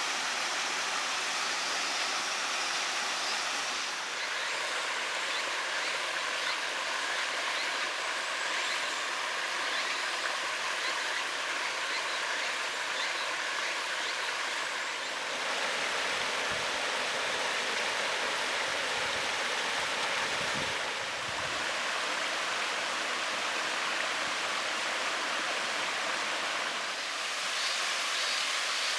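Waterfall and mountain stream rushing steadily, the falls running on a reduced flow. Its tone shifts abruptly three times, at about 4, 15 and 27 seconds in.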